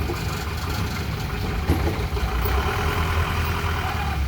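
Heavy vehicle's diesel engine running steadily at low revs, with one sharp knock a little under two seconds in.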